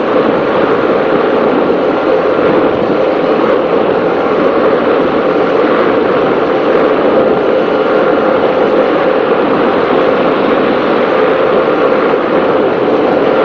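Racing powerboat running at speed close to flat out: a steady, loud rush of engine and hull noise heard onboard.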